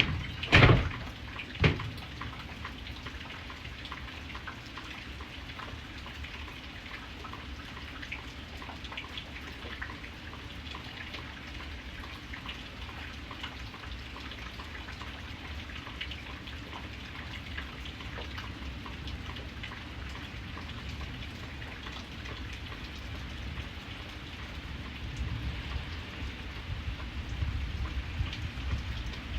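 Steady rain falling, with individual drops ticking on a surface. Three sharp, loud knocks come in the first two seconds, and a low rumble swells near the end.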